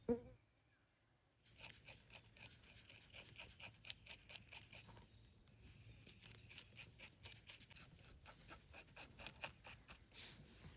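Quick, irregular crisp clicks and scrapes of close-up handwork, several a second, starting about a second and a half in after a single thump at the very start.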